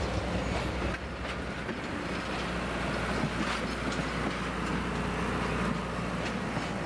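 Train running on the rails: a steady low rumble with scattered light clicks.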